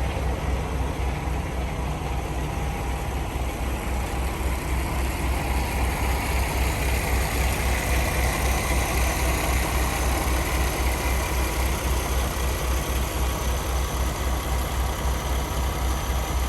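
Paccar MX-13 inline-six diesel engine of a Kenworth T680 semi truck idling steadily, with an even low pulsing beat.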